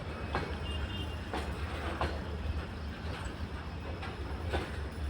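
Heavily loaded BCNA covered freight wagons rolling on the track: a steady low rumble with irregular sharp wheel clacks over the rail joints.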